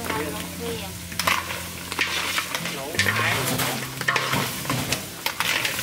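Snails in their shells and potato chunks frying in a large wok of curry paste: a steady sizzle with repeated scraping and clattering as a spatula stirs them, denser from about a second in.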